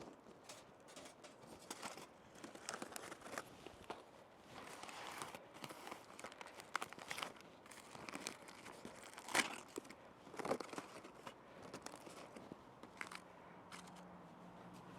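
Aluminium foil crinkling and tearing as a cooked foil packet is handled and opened, in irregular crackles and small sharp clicks.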